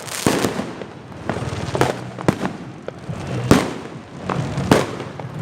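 Fireworks and firecrackers going off: about ten sharp bangs at irregular intervals, some trailing into a hissing crackle.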